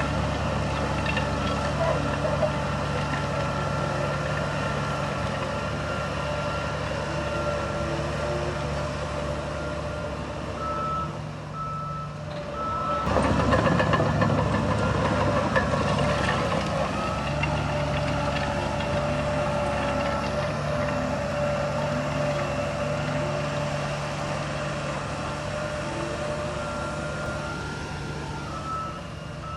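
Heavy diesel earthmoving machinery running, with a reversing alarm beeping at one steady high pitch. The engines get louder a little before halfway through.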